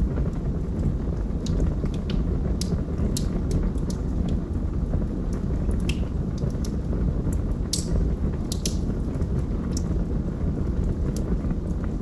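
Wood fire burning in a fireplace: a steady low rumble from the flames with scattered sharp crackles and pops throughout, a few louder pops about eight seconds in.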